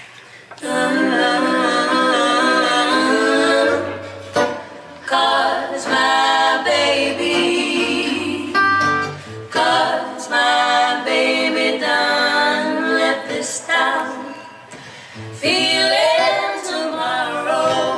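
Three female voices singing in close harmony, in long phrases with short breaks between them, with bass notes underneath for part of the time.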